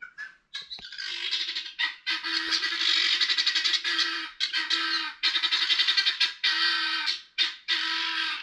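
A dense chorus of many birds squawking and chattering at once, in several stretches separated by brief breaks.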